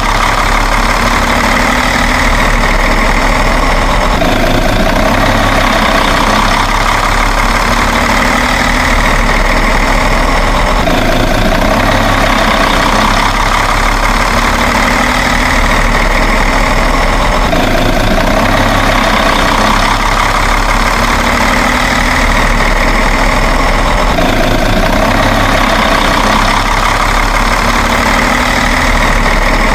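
Truck engine idling steadily, a recording that loops and repeats about every six and a half seconds.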